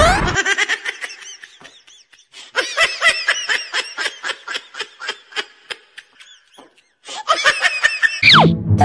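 Laughter sound effect, a run of short high giggles about three to four a second, then a loud falling cartoon whistle near the end.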